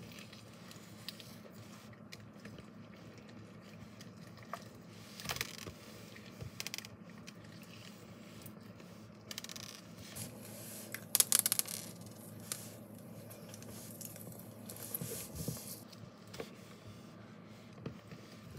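Dried-up slime being pulled and ripped apart by hand, giving soft, scattered crackles and squishes, with the loudest run of crackles about two-thirds of the way through.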